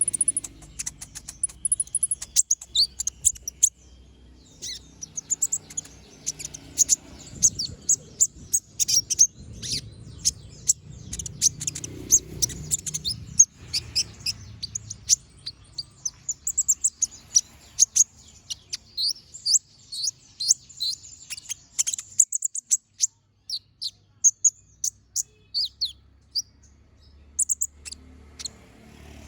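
Konin (kolibri ninja) sunbird singing a fast, chattering stream of sharp, high chirps and short slurred whistles, with a brief lull a little past two-thirds of the way through.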